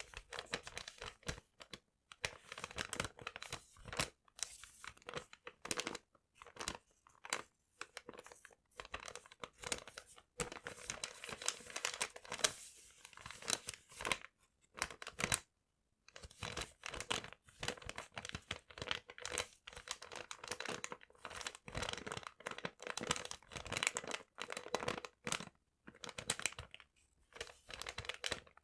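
Paper being crumpled and torn close to the microphone: irregular crackling and crinkling bursts with brief pauses between them.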